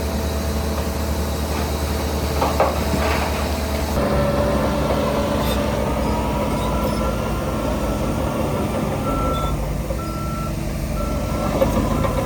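Heavy construction machine's diesel engine running steadily, its note changing about four seconds in, with a few clanks. Near the end a reversing alarm beeps three times as the machine backs up.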